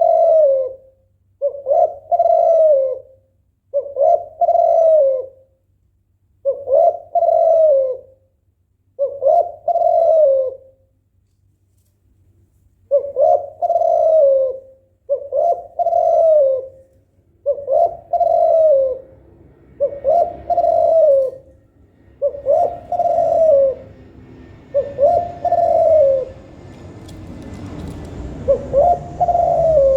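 Female spotted dove (tekukur) in breeding condition giving its coo call, short similar phrases repeated about every one and a half to two seconds, with a pause of about two seconds midway. A low, even background noise grows louder under the coos in the last third.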